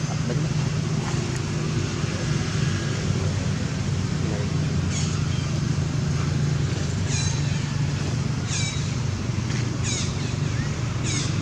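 A baby macaque's short, high-pitched cries, each falling in pitch, repeated about every second and a half from about five seconds in, over a steady low hum.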